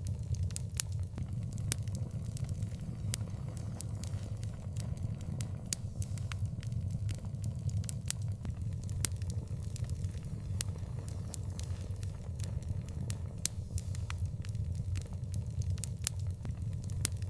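Open fire crackling, with frequent irregular sharp pops over a steady low rumble of burning.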